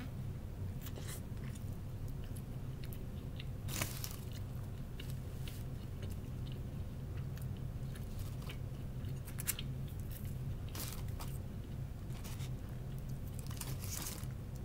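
Close-miked mouth sounds of a person biting into and chewing a sandwich: scattered wet smacks and crunches, the sharpest about four seconds in and again near ten seconds, over a steady low hum.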